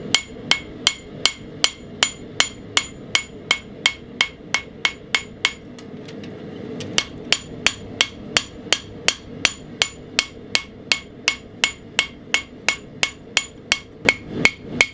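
Hand hammer striking a steel knife blade on an anvil in a steady rhythm of about three blows a second, each blow ringing. The blows break off for a second or so midway, then resume.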